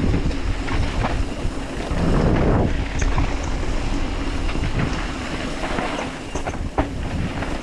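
Wind rumbling over the microphone as a Commencal Clash mountain bike rolls fast down a dirt jump line, its tyres hissing on the dirt and the bike rattling and clacking over the bumps, with a few sharp knocks, one near the end.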